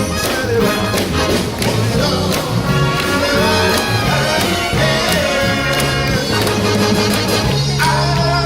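Live big band music: brass and rhythm section playing a jazz number with a steady beat.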